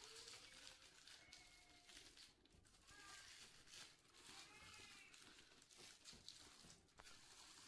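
Near silence, with a few faint, brief high-pitched sounds in the background.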